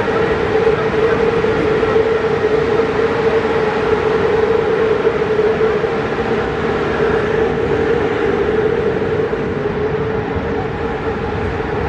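Passenger train standing at the platform, giving off a steady hum at one unchanging pitch over a constant rumble.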